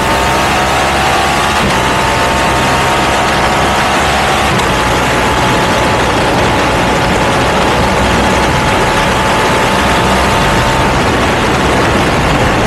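Ducati V2 twin-cylinder engine with a Termignoni exhaust running at a steady speed under way, its pitch easing down slightly in the first couple of seconds and then holding steady, over loud rushing noise.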